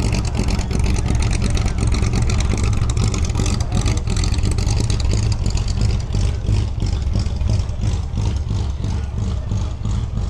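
A vehicle engine running with a deep, steady rumble.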